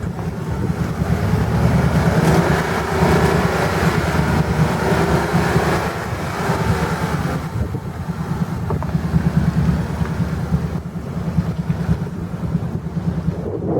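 Off-road 4x4 truck engine running under load on a wet clay trail, louder from about two to seven seconds in.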